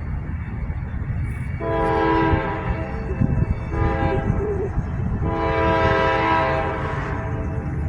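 A locomotive's five-chime K5LA air horn sounds three blasts, a long one, a short one and a long one, over the low, steady rumble of the passing freight train.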